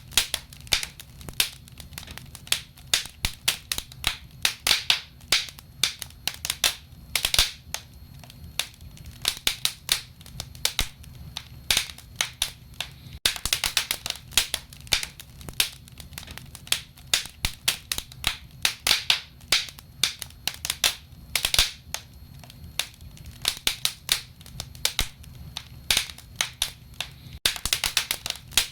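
Wood fire in a fireplace crackling and popping: a dense, irregular run of sharp pops and snaps with a faint low hum beneath.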